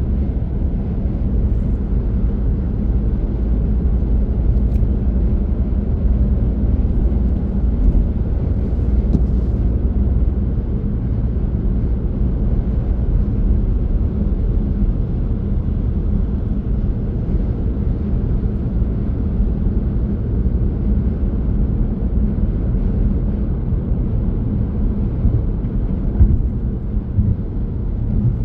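Steady low rumble of a car on the move: engine and tyre-on-road noise.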